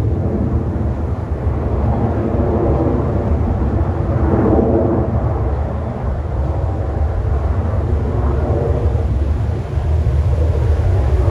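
Aircraft flying past with a steady, heavy engine rumble that swells about four to five seconds in and again near the end.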